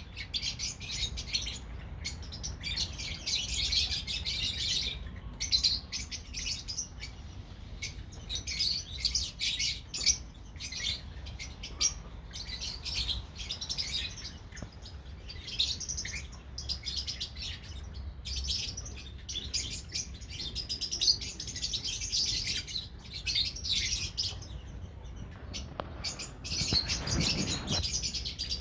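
A group of lovebirds chirping and chattering, a dense run of high, rapid chirps that overlap one another.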